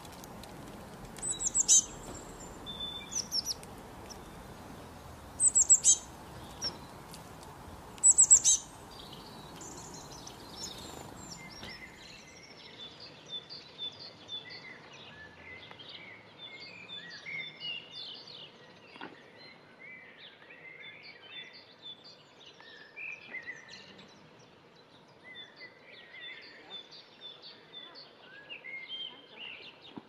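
Wild birds calling: loud, high, sharp chirps in short clusters for the first dozen seconds. Then a busy chorus of many small songbirds, chirping and singing over faint outdoor background noise.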